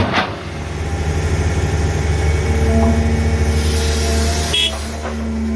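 Six-cylinder diesel engines of two hydraulic excavators, a CAT 320 Next Gen and a Komatsu PC200-7, running hard while digging rock. The drone swells over the first few seconds, and a steady whine joins it about halfway through.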